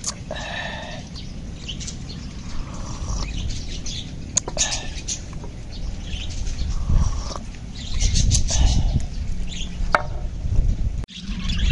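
Small birds chirping and twittering in short, scattered calls over a low, steady rumble.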